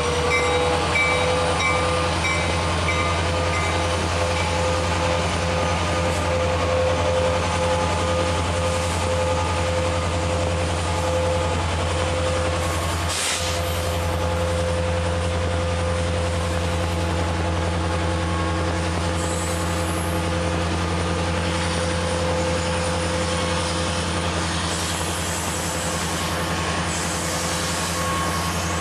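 Freight train of coal cars rolling past: a steady rumble and clatter of steel wheels on rail, with a thin, steady wheel squeal over it. A crossing bell dings in the first few seconds as the locomotive goes by.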